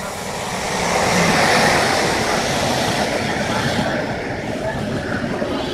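A train running through a station on the rails, growing louder over the first second and a half, then holding steady.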